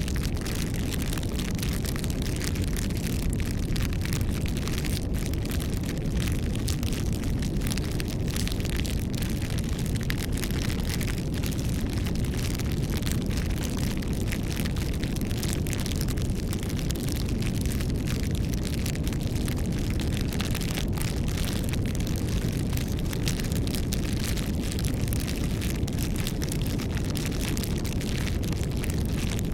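Wood bonfire burning steadily: a constant low rumble of the flames with many small crackles and pops.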